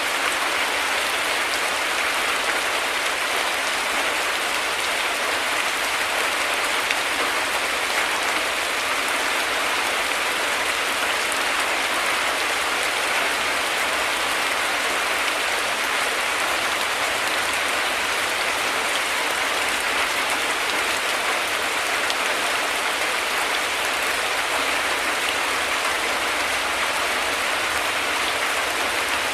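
Heavy rain falling steadily: a dense, even hiss of raindrops with no thunder and no change in strength.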